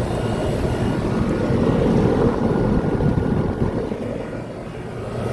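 Outdoor air-conditioner condensing units running: a steady low whooshing hum of condenser fans and compressors, easing slightly a little after four seconds in.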